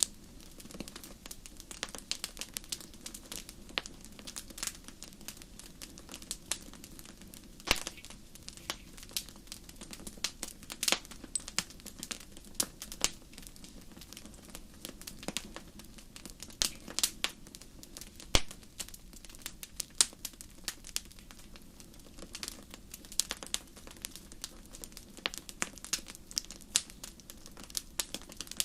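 Wood fire in a fireplace crackling, with frequent irregular sharp pops and snaps over a soft steady rumble of the flames.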